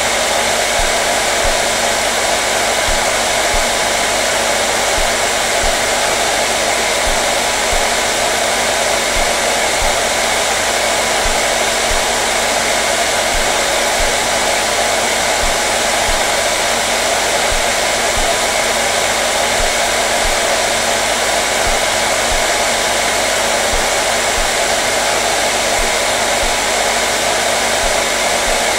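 Hair dryer running steadily: a continuous, unchanging blowing hiss with a faint motor hum.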